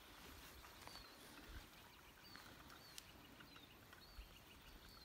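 Faint woodland birdsong: a small bird repeats short, high, falling chirps about once a second, with a few soft ticks and a sharp click about three seconds in.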